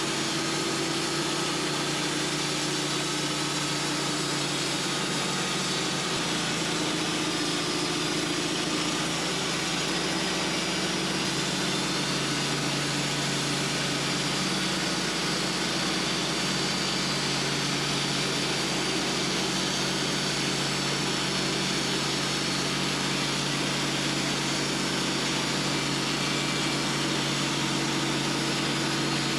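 Portable sawmill's engine running at a steady pitch through a long saw pass, with the blade cutting a spruce log.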